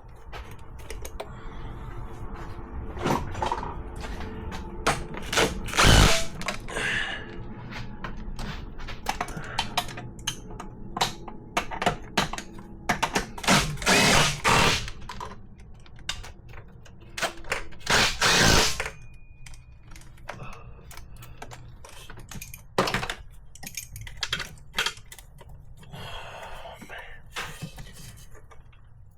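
Hand tools working on exhaust manifold bolts in an engine bay: many ratchet clicks and metal clinks, with three louder rushes of about a second each.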